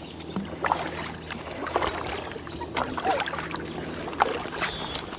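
Sounds of a kayak being paddled: irregular splashes, drips and knocks of the paddle and gear against the hull.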